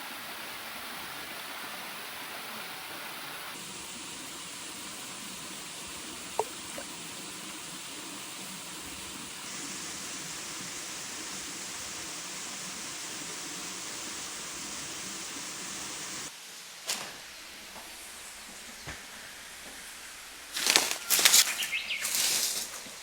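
Steady rush of a waterfall, its sound changing abruptly at a few cuts. Near the end comes a cluster of loud, sharp sounds.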